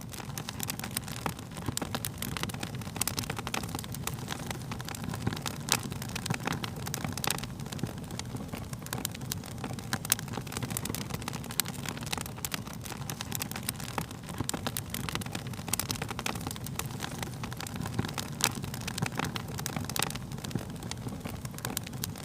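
Wood fire burning with a steady low rush of flame and frequent sharp crackles and pops.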